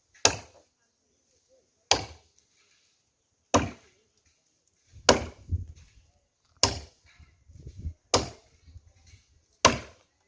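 Green wood being chopped by hand with a bladed tool: seven sharp strikes in a steady rhythm, about one and a half seconds apart.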